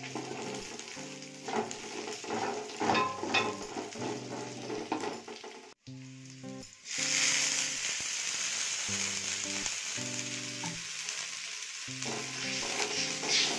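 Sliced garlic, shallots and chillies frying in oil in an aluminium wok, stirred and scraped with a wooden spatula. After a brief break about six seconds in, the sizzle turns louder and steady.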